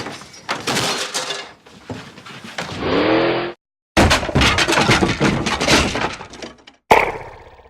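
Crashing and smashing sound effects: two long runs of rapid breaking impacts with a short silence between them. They end in one sharp hit that rings away.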